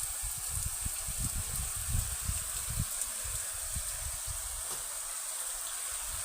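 Heavy rain falling as a steady hiss, with irregular low thuds and rumbles mixed in during the first few seconds.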